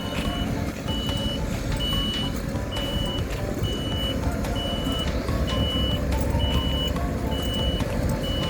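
Reversing alarm of a heavy construction vehicle beeping steadily, about one beep a second, over the low rumble of its diesel engine, as it backs up during asphalt paving.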